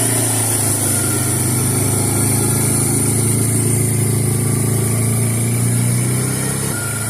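Suzuki Eiger 400 ATV's single-cylinder four-stroke engine running steadily under throttle, its note dropping as it eases off near the end.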